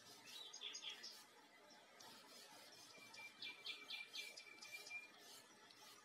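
Faint birdsong: quick runs of high chirps near the start and again in the second half, with a thin steady whistle held for about two seconds under the later chirps.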